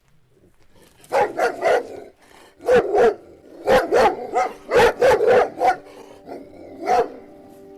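A dog barking loudly in quick runs of two to four barks, about a dozen in all, with a last single bark near the end.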